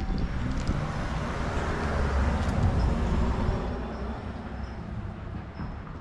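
A road vehicle passing by, its noise swelling to a peak around the middle and then fading away.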